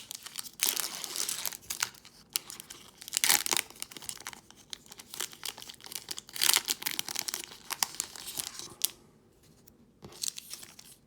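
Foil wrapper of a Pokémon TCG Evolutions booster pack being torn open and crinkled, in several sharp rips and rustles, then quieter handling of the cards near the end.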